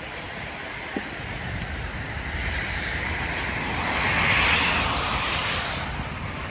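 A vehicle passing on a snowy city street: tyre hiss swells to a peak about four seconds in, then fades, over a low rumble.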